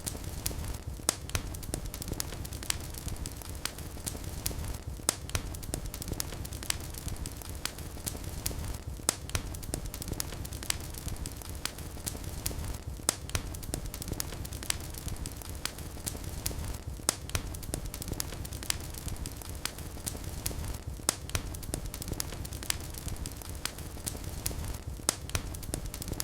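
Wood fire burning in a fireplace: a low steady rumble of flames with irregular sharp crackles and pops, several a second.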